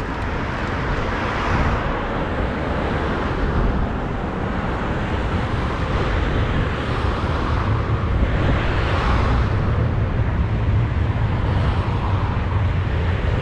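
City street traffic: a steady wash of vehicles passing, swelling as they go by, with a heavier low rumble from about eight seconds in.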